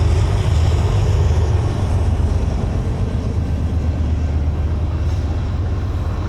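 BNSF freight train passing: a steady low diesel-locomotive rumble under a wide haze of wheel and rail noise, slowly easing off.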